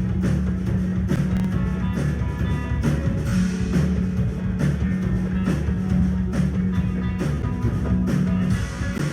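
Live rock band playing: distorted guitar with heavy low notes over a steady drum kit beat.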